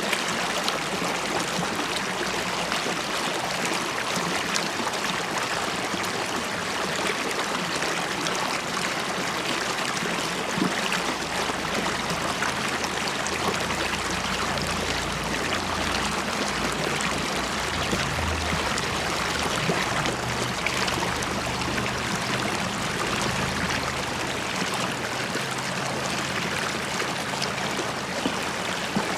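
River water running steadily and bubbling. A low rumble joins about twelve seconds in and carries on almost to the end.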